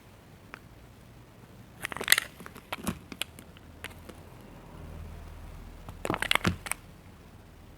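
Knife cutting through soap cubes with a crunchy crackle, in short bursts about two seconds in, around three seconds, and again about six seconds in.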